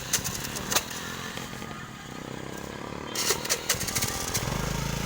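Two-wheeler engine running on the road, with a few sharp clicks and knocks. About four and a half seconds in, a louder, lower engine drone sets in as another engine comes in closer or starts up.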